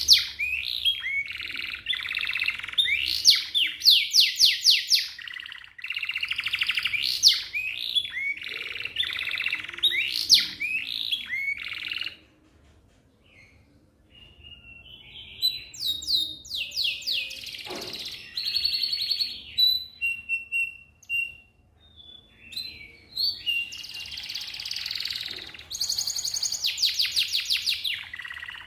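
Domestic canary singing long phrases of fast rolls and trills, rapid repeated high notes and sweeping chirps, with a short pause about twelve seconds in before it sings on.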